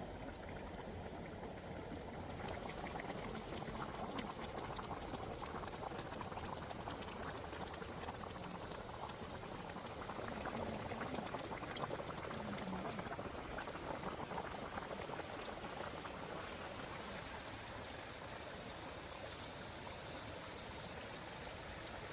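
Water bubbling steadily, with fine crackling specks through it.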